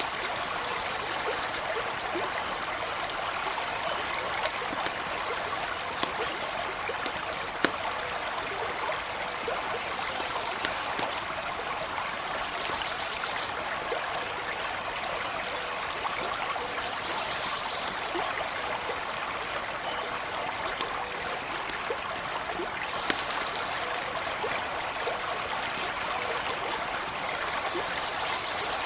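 Stream running steadily, with scattered sharp crackles from a campfire over it.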